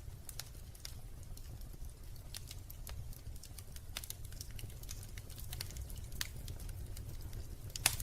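Wood fire in a fireplace crackling, with irregular small snaps and a louder pop near the end, over a steady low rumble.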